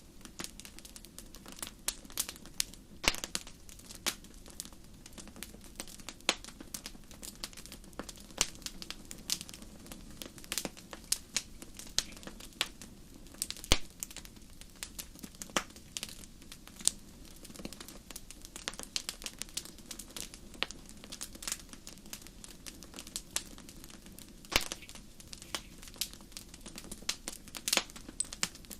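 Wood fire crackling: irregular sharp pops and snaps, some louder than others, over a steady low rush of burning.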